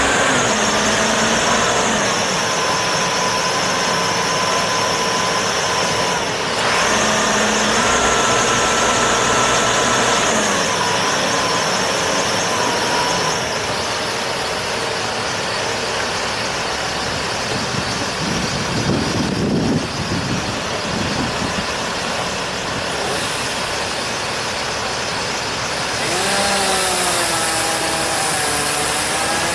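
Heavy machine's engine running steadily, its pitch stepping up and down several times, with a short louder rumble about two-thirds of the way through and a wavering pitch near the end.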